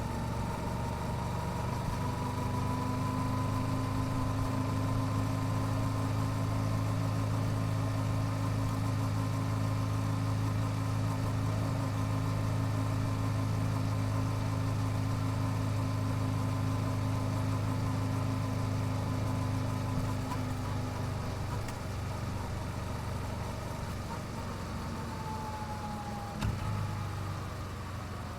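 Yamaha YZF-R7's parallel-twin engine on its stock exhaust, running at a steady pace with a thin whine held above it. In the last few seconds the engine note weakens and the whine falls in pitch as the bike slows, with a single knock shortly before the end.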